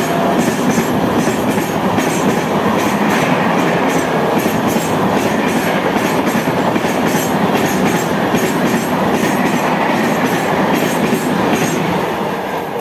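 Passenger train of red-and-grey LHB coaches running past at speed: a steady loud rush of steel wheels on the rails with repeated clicks, easing off near the end.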